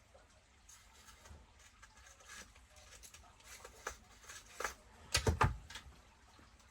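Scattered light clicks and knocks of tools and metal and plastic parts being handled while a part is worked loose from an RC truck's drivetrain, with a louder short clatter a little past five seconds in.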